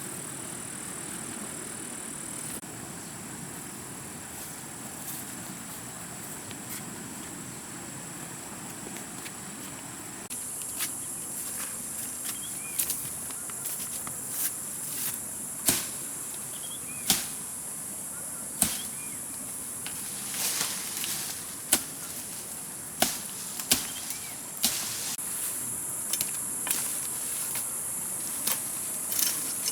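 Insects droning in a steady high buzz. From about ten seconds in, irregular sharp knocks and taps come through it, a few seconds apart or in quick clusters.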